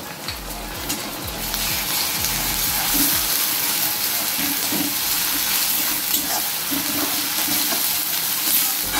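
Onion paste and sliced onions sizzling in hot oil in a metal kadai, stirred and scraped with a flat metal spatula. The sizzle swells and grows steady about a second and a half in.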